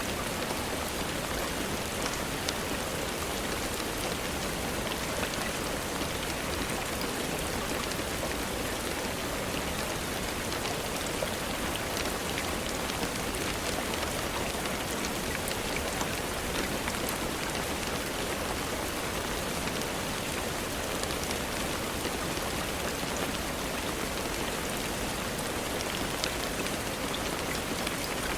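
Steady rainfall: an even hiss of rain on surfaces with scattered faint ticks of single drops.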